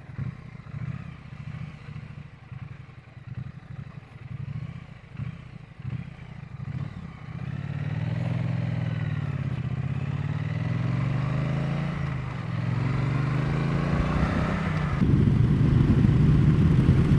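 Triumph Bonneville T100 parallel-twin engine being ridden. It is low and uneven for the first seven seconds. After that it runs steadily, with the revs rising and falling through gear changes, and it gets louder near the end as it pulls harder.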